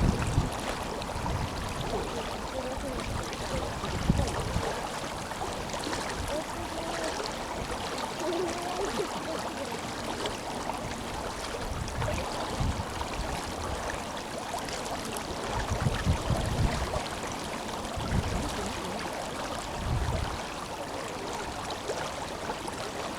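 Tenryū River flowing: a steady rush of running water over the riverbed. Low rumbles of wind buffeting the microphone come and go several times.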